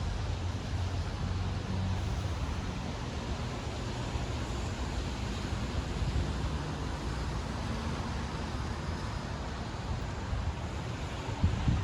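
Steady outdoor rumble and hiss of passing road traffic on a windy, rainy day. A low engine-like rumble is strongest at the start, and near the end gusts of wind buffet the microphone.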